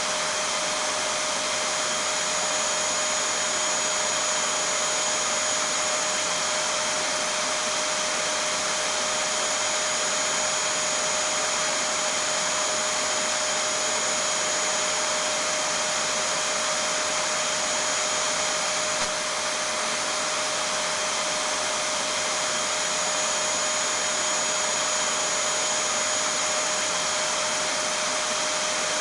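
Vacuum cleaner running steadily, an even rushing noise with a steady whine and a higher steady tone above it.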